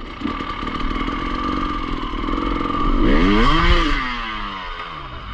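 Enduro motorcycle engine running, revved hard about three seconds in, then its pitch falling away as the throttle closes.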